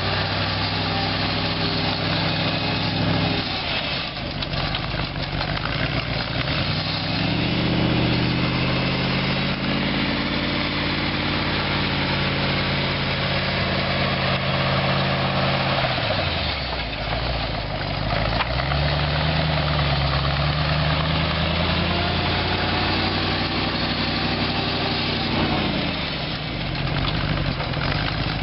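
Chrysler 318 V8 engine of a homemade articulated 4x4 tractor running, its pitch dropping and climbing back up three times as the revs fall and rise, steady in between.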